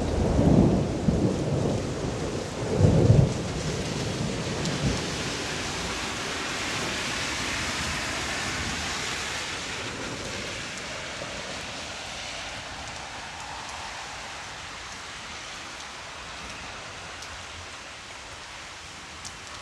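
Thunder rumbling, with two loud peaks in the first few seconds, over steady rain falling. The rain hiss carries on after the thunder dies away and slowly grows quieter.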